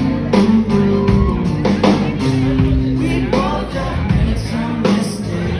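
Live rock band playing a song: a drum kit keeping a steady beat under sustained guitar and bass, with a voice singing.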